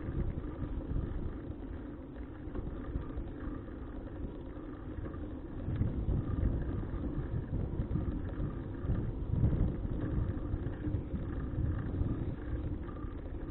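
Wind buffeting the microphone and road rumble while riding a bicycle, growing a little louder about six seconds in.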